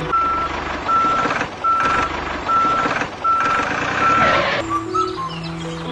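A truck's reversing alarm beeping six times at a steady pitch, about one beep every 0.8 seconds, over the noise of the vehicle running. Background music takes over near the end.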